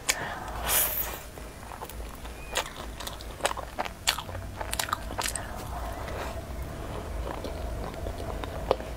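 Close-miked chewing of a soft cream-layered crepe cake, with irregular sharp mouth clicks.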